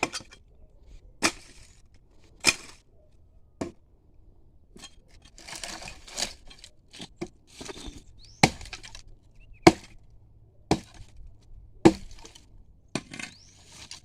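A billhook (foice) chopping dry firewood: a series of sharp strikes into wood, about one a second, with a short spell of brush rustling in the middle.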